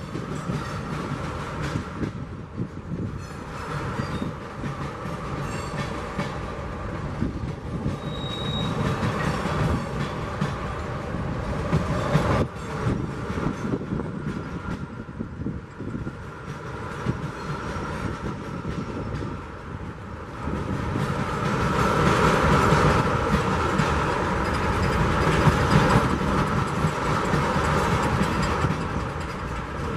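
Freight train of tank cars rolling past: a steady rumble of steel wheels on rail with many quick clicks and clatters. It grows louder about two-thirds of the way through as closer cars go by.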